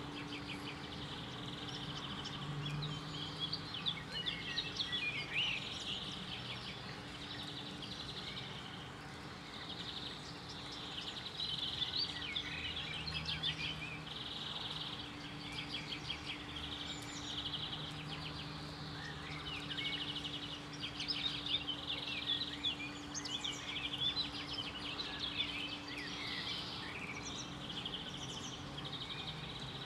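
Songbirds singing repeated chirps and fast trills, over a steady low hum.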